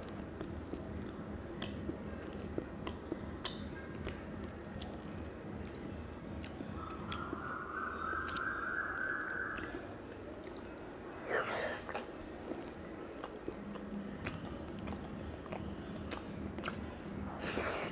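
A person chewing a mouthful of curry and rice, with many small wet mouth clicks and smacks. There are two louder brief mouth or hand sounds, one about eleven seconds in and one near the end.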